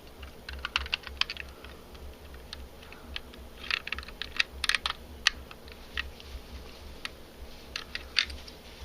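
Hard plastic LEGO pieces clicking and tapping as they are handled, in irregular clusters of sharp clicks, over a faint, steady low hum.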